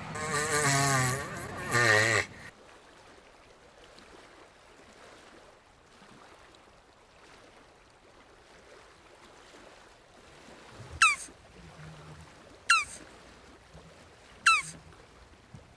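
Jabuti (South American tortoise) vocalising: a wavering low groan over the first two seconds, then quiet, then four short sharp squeaks, each falling in pitch, spaced about a second and a half to two seconds apart.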